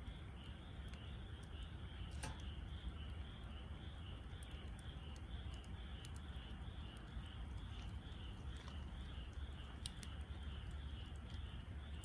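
Campfire of wood burning in a fire pit, crackling with scattered small pops and one or two sharper ones, over a low steady rumble. An insect chirps steadily behind it, in even pulses about two to three times a second.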